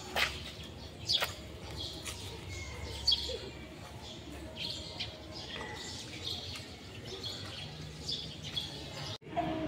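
Small birds chirping, with scattered short calls throughout and two sharp downward-sweeping chirps in the first second or so, over a low steady outdoor background.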